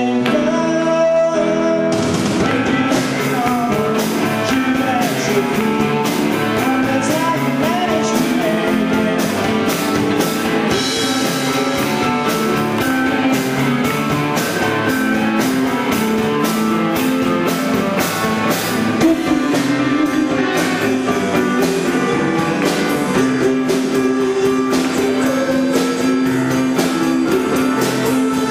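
Live rock band playing, with electric guitar and a drum kit; the drums come in with a steady beat about two seconds in.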